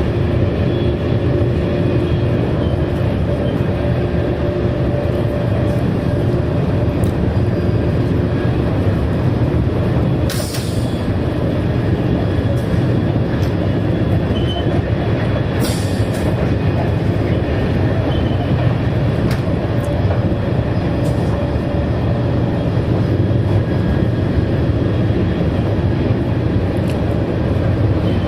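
Steady running noise inside a TGV Duplex high-speed train at speed: a continuous rumble of wheels and air with faint steady tones. Two brief hissing whooshes cut through it, about ten and sixteen seconds in.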